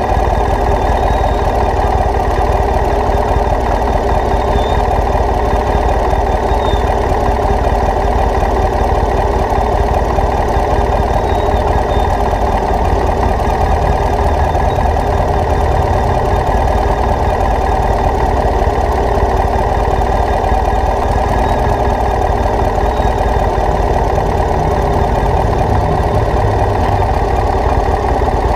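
A vehicle engine running steadily, with no revving and no change in pitch.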